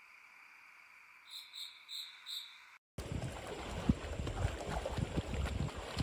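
Night chorus of frogs and insects: a steady high trill with four evenly spaced croaks about a second in. After a sudden cut, a much louder, dense patter of many small taps over a low rumble.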